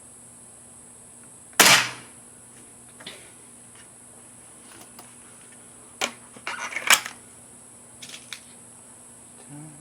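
Remington Express .177 spring-piston break-barrel air rifle fired once about one and a half seconds in, a sharp crack that dies away quickly. Later come a run of clicks and rattles around six to seven seconds in and a couple more clicks near eight seconds, as the rifle is handled between shots.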